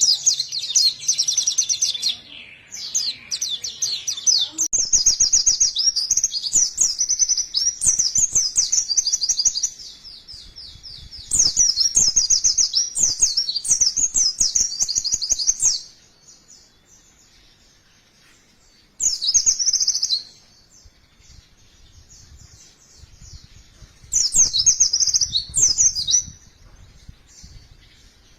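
White-eye (pleci) singing a fast, high-pitched twittering song in bursts of a few seconds, with short pauses between the phrases.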